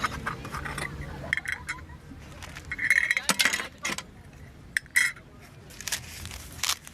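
Metal clinking and knocking, with a short ringing clink about three seconds in and another about five seconds in.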